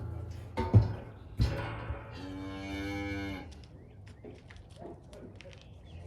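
A cow mooing once, a single call of about a second starting a little over two seconds in. Two sharp knocks come before it, a little under a second and about a second and a half in.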